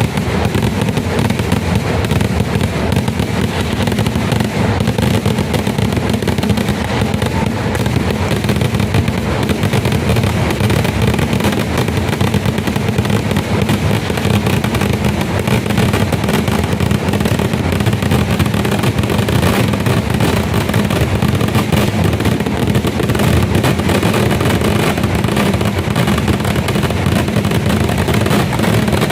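Dense, unbroken barrage of firecracker explosions from a vedikettu fireworks display, the blasts coming so fast they run together into one steady, loud din with heavy low-end weight.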